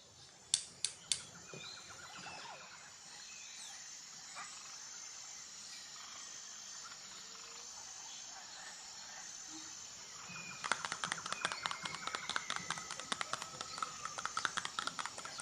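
Birdsong and nature ambience, with many short chirps and whistles over a steady outdoor hiss. Three sharp clicks come about a second in, and about two-thirds of the way through a dense run of rapid crisp tapping and scratching begins.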